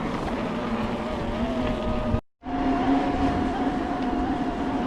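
Steady whine of an electric mountain bike's motor under pedal assist, over rushing tyre and wind noise on the mic. The sound cuts out completely for a moment a little over two seconds in.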